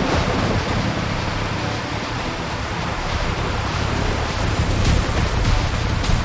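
A steady, loud rushing noise with a heavy low rumble, and a few sharp cracks near the end.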